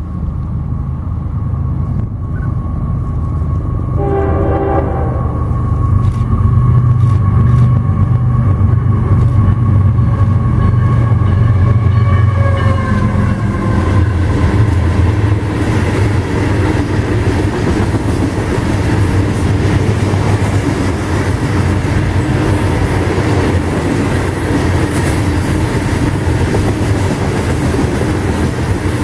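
Diesel freight train approaching and passing close by. The locomotive horn sounds and its pitch drops as the locomotives go by, over a heavy low engine rumble. Then comes the steady rolling noise and clickety-clack of open-top hopper cars going past.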